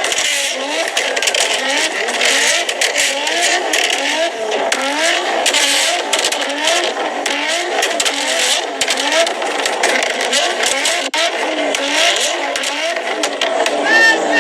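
Nissan GT-R engines revving against each other in quick, repeated blips, the pitch rising and falling over and over with the revs overlapping, and a crackly rasp on top.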